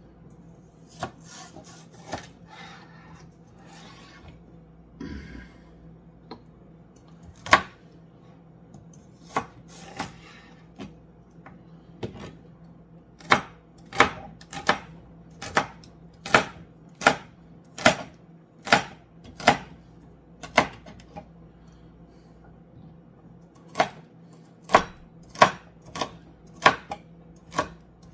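Kitchen knife chopping vegetables on a cutting board: sharp single knocks, scattered at first, then steady runs of about one and a half strokes a second.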